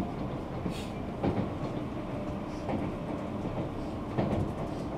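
Moving electric commuter train heard from on board: a steady rumble, with a clack of the wheels over rail joints about every second and a half.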